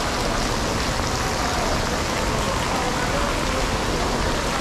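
Steady rain falling on hard surfaces, an even, unbroken hiss.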